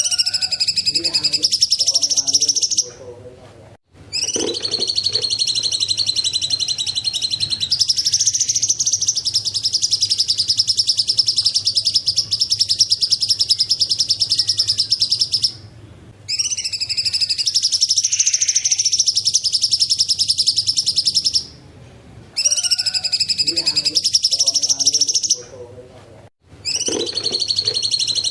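Cucak cungkok singing: long, high, rapid trilled phrases, each several seconds long, with short pauses between them.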